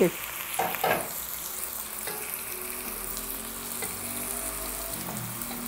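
Steady sizzling of food cooking on a hot stovetop, with a pot of steaming, wilting spinach being stirred.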